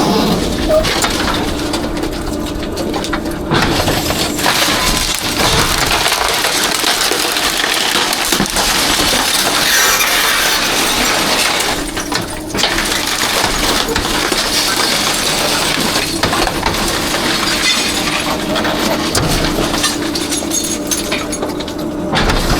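Rear-loader garbage truck's packer crushing a load of dumpster trash: continuous crackling and breaking with glass shattering, over the steady hum of the truck's hydraulics.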